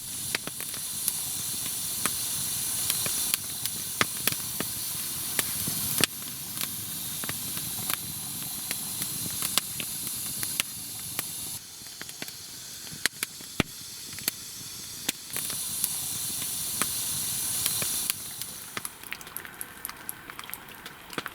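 Damp firewood burning in a stove-fireplace: a steady hiss of flames and moisture with frequent sharp crackles and pops.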